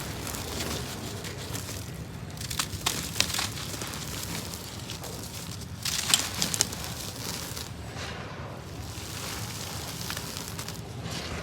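Gritty dry cement crumbling and crunching, with clusters of sharp crackles about two seconds in and again about six seconds in, over a low steady hum.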